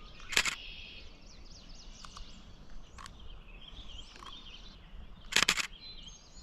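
Wetland birds singing and chirping, with many short, high calls overlapping. Two short, loud bursts of clicking cut through, one just after the start and one about five seconds in.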